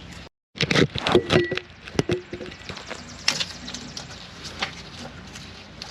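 Hand tools clicking and knocking against metal while working on a brake line, a dense run of sharp clicks with short squeaks in the first couple of seconds, then sparser taps.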